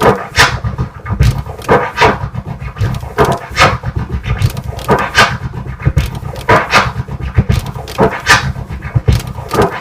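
Turntable scratching of a kick-and-snare drum sample: a hybrid orbit-and-tear scratch combo, the record pushed forward and back in fast, repeated strokes that come in quick pairs and clusters, with drum thumps underneath.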